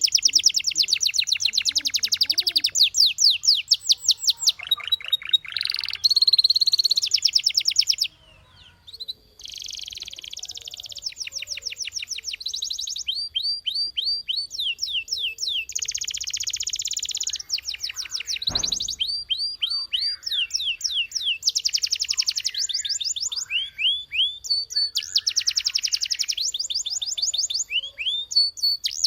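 Canary singing: fast trills and rolls of rapidly repeated high notes, in phrases a second or two long, with a short break about eight seconds in. A single brief knock comes about two-thirds of the way through.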